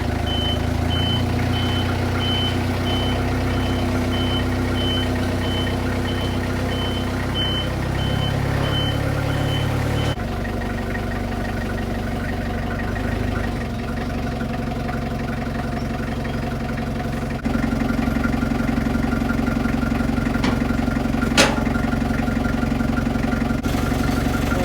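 Vehicle engine running steadily, with a high repeated warning beep, like a reversing alarm, sounding for the first ten seconds or so before stopping abruptly. A single sharp click comes near the end.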